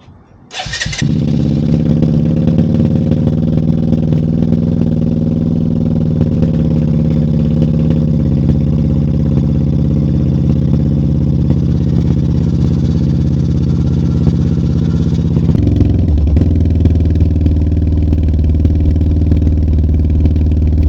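Benelli TNT 125's single-cylinder four-stroke engine starting up about a second in, then idling steadily and loud through a newly fitted aftermarket slip-on exhaust. Near the end the idle settles to a lower, deeper pitch.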